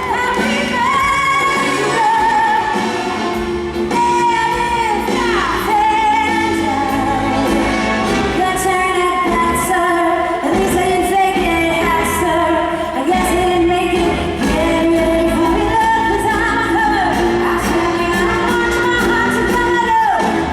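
Female singer belting a show tune live over a full band, holding long notes with wide vibrato, with the echo of a large arena.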